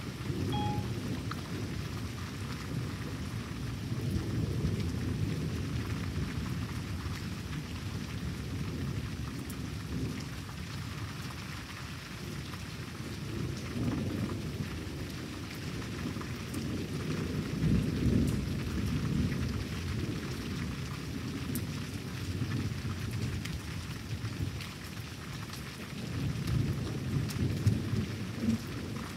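Thunderstorm: steady rain with rolling thunder rumbling underneath, swelling loudest about two-thirds of the way through and again near the end.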